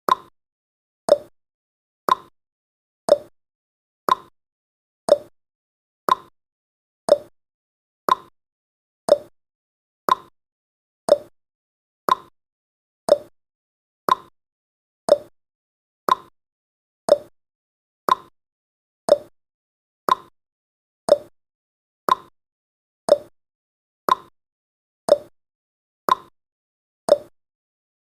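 A timer's clock-ticking sound effect, one tick every second, alternating a higher tick and a lower tock.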